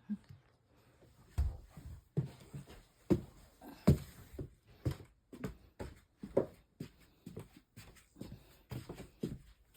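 Footsteps walking, a soft thump roughly once a second.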